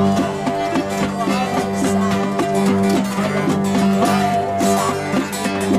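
Live acoustic band playing a fast one-chord jam: strummed guitars and rapidly picked banjo over a steady droning bass note, likely bowed cello.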